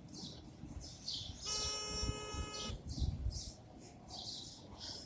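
A bird chirping over and over in short high notes, about two a second. A steady pitched tone sounds for just over a second near the middle, with some low bumps around it.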